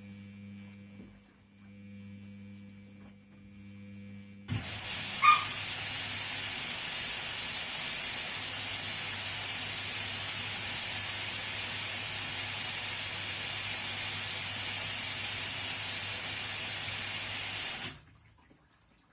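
Washing machine filling with water: a low steady hum, then about four and a half seconds in water starts rushing in with a sudden steady hiss. A brief sharp chirp, the loudest moment, comes just after the hiss starts. The hiss cuts off sharply near the end.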